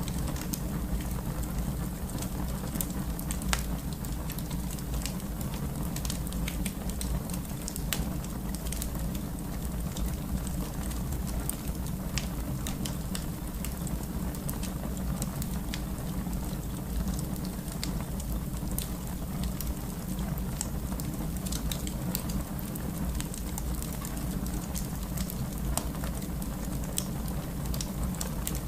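Fire burning in a fireplace: a steady low rush with frequent sharp crackles and pops scattered throughout.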